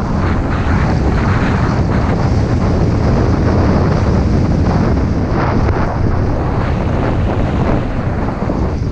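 Loud, steady wind noise buffeting the microphone of a camera carried by a skier moving downhill, with irregular surges.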